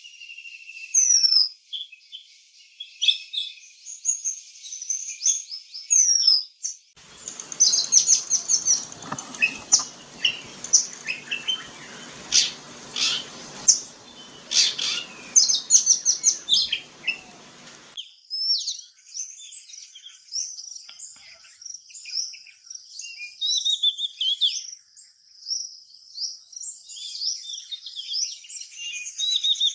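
Seychelles magpie robins chirping and whistling in quick, high, repeated notes. Between about 7 and 18 seconds a low steady hum with a rushing noise runs under the birdsong, then stops suddenly.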